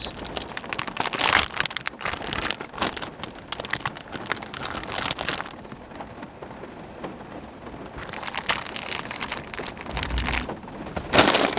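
Rain pattering on the truck with irregular crinkling of plastic food packaging, which eases off about halfway through and then picks up again.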